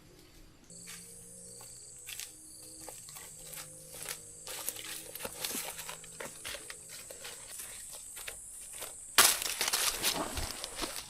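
Forest ambience: a steady high-pitched insect trill over scattered taps and crackles. About nine seconds in, a loud crinkling rustle sets in.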